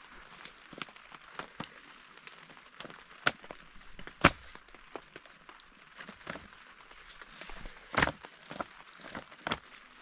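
Rain drops tapping irregularly on tent fabric over a faint hiss, with a few louder taps about three, four and eight seconds in.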